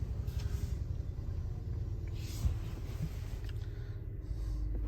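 Low, steady rumble inside a pickup truck's cab, with a faint click about two and a half seconds in.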